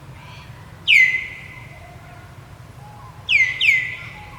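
Three loud, high whistle-like animal calls: one about a second in and two close together near the end. Each falls sharply in pitch and then holds steady.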